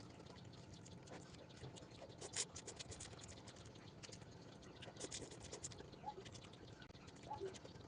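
Faint scratching and light clicking, with a few short squeaks near the end.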